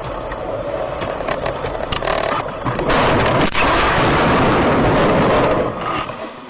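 Vehicle and road noise with a few sharp knocks. It grows louder from about three seconds in, with one sharp knock in the middle, and falls away near the end.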